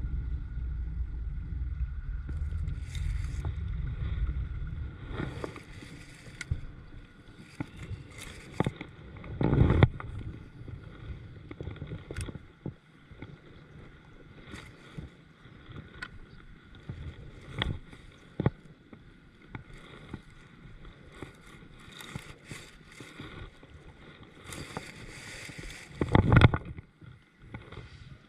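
Kayak handling noises on the water: a low rumble at first, then scattered clicks and two louder knocks, about ten seconds in and near the end.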